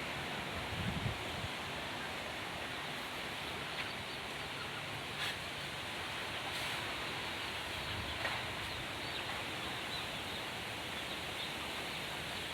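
Strong wind blowing steadily, an even rushing noise, with a few faint short ticks or chirps scattered through it.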